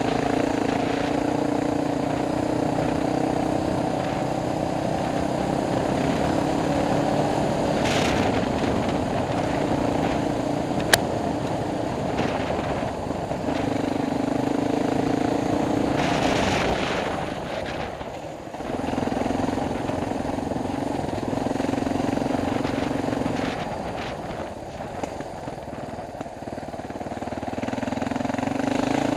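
Dual-sport motorcycle engine running under a rider on a trail, its note rising and falling with the throttle and easing off briefly about eighteen seconds in and again around twenty-five seconds. A single sharp click about eleven seconds in.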